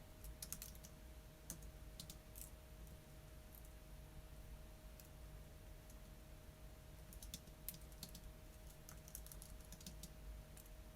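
Typing on a computer keyboard: irregular runs of soft keystrokes broken by pauses, over a faint steady hum.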